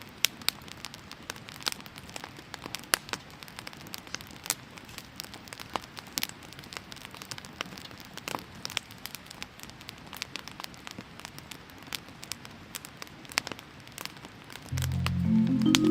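Firewood burning in a fire pit, crackling with irregular sharp pops and snaps over a faint steady hiss. About a second before the end, music with mallet percussion comes in over it.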